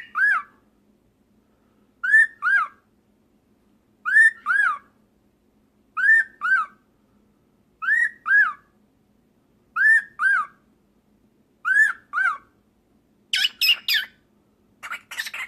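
Pet cockatiel whistling a two-note phrase of short rising-and-falling notes, repeated seven times about every two seconds, then breaking into scratchy chattering near the end.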